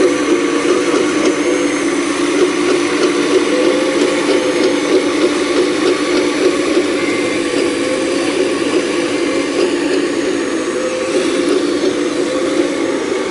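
Full-size excavator working: a steady engine drone whose pitch rises and dips slightly with the load, with thin high whining tones above it.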